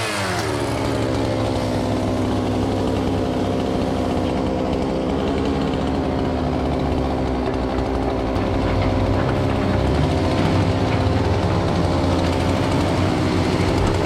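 Engine running steadily at a constant speed, without revving, a little louder in the second half.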